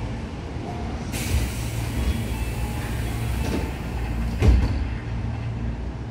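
Tobu 9000 series electric train running along the track, heard from inside the car: a steady wheel-on-rail rumble with a hiss that comes up about a second in. There is a sharp knock about three and a half seconds in and a louder one about four and a half seconds in.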